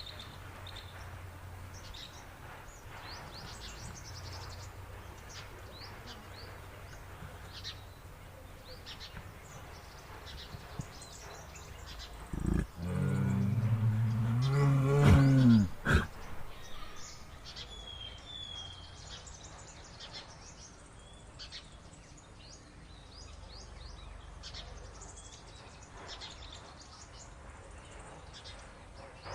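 A bear growling once, a low roar lasting about three seconds that rises in pitch near its end, over a steady background of small birds chirping.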